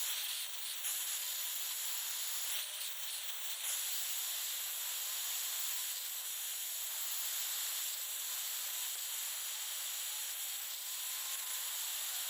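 Small handheld torch burning with a steady hiss while it heats a seized mower-blade bolt to free it.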